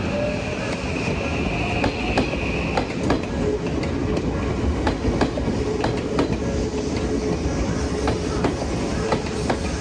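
A train running close by, its wheels clacking over rail joints in a steady stream of sharp knocks over a continuous rumble. A high wheel squeal sounds over the first few seconds.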